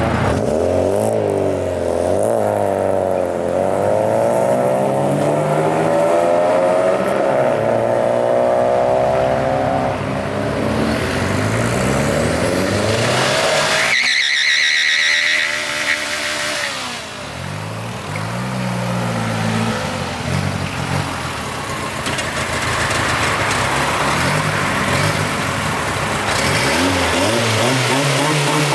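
Car engines revving and accelerating away one after another, their pitch rising and falling repeatedly. About halfway through there is a brief high-pitched whine.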